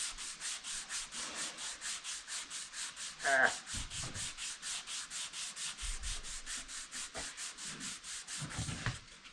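Sandpaper rubbed back and forth over a surface in quick, even strokes, about five a second, final sanding before paint. A short rising voice-like sound cuts in about three seconds in.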